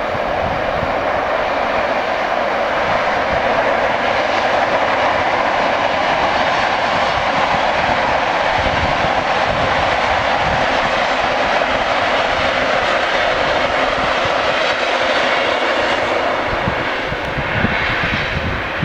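Steam-hauled passenger train running across a stone arch bridge: a steady rumble that eases a little near the end. Wind buffets the microphone throughout.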